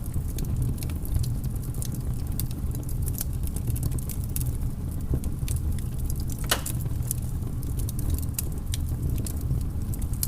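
Wood fire burning in a fireplace: irregular crackles and pops over a steady low rumble, with one louder pop about six and a half seconds in.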